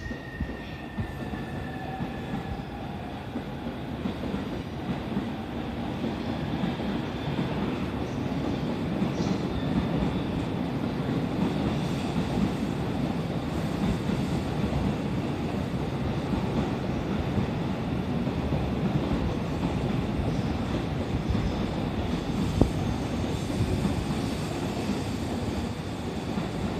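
JR electric commuter train running through the station, its wheels rumbling and clattering over the rail joints, louder as it passes close by.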